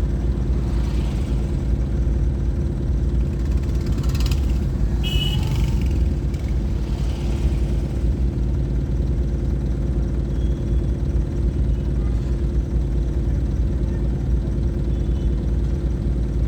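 A vehicle engine running steadily, a low, even drone, with a few brief faint higher sounds about four to seven seconds in.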